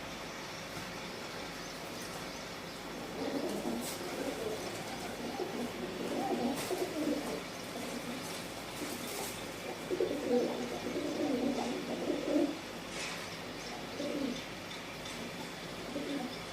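Pigeons cooing: a run of low, repeated cooing phrases starting about three seconds in, loudest between about ten and twelve seconds.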